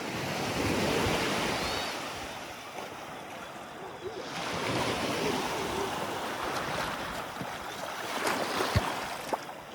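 Sea water washing in the shallows, swelling twice. A few sharp clicks come near the end.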